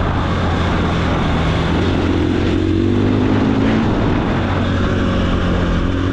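KTM 500 EXC-F's single-cylinder four-stroke engine running at fairly steady revs, its pitch rising and falling a little a few times, over a steady rushing noise.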